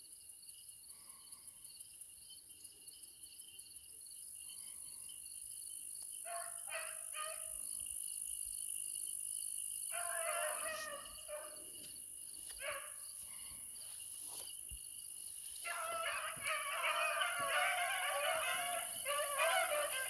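Pack of beagles baying on a rabbit's trail. A few voices open about six seconds in, more join around ten seconds, and the full pack runs together in a dense chorus near the end, over steady insect chirring.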